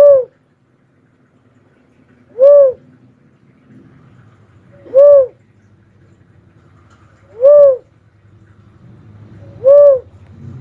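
Cuckoo-dove (burung uncal) calling: a single short, rising-then-falling hoot repeated five times at even intervals of about two and a half seconds, over a faint low hum.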